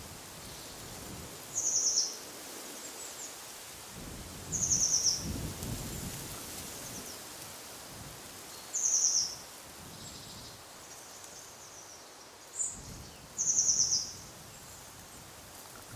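A songbird sings a short, high, rapid trill four times, about every three to four seconds, each lasting about half a second. Beneath it is a steady soft hiss of wind, with low gusts swelling twice.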